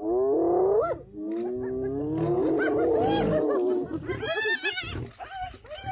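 Several spotted hyenas calling together: overlapping drawn-out calls, some rising sharply in pitch at the end. About four seconds in they break into rapid, high, wavering giggles, then quieter calls follow.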